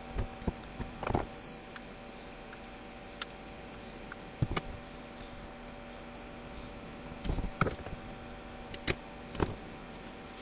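Scattered clicks and light knocks of small hard parts and tools being handled, in short clusters, over a steady faint hum.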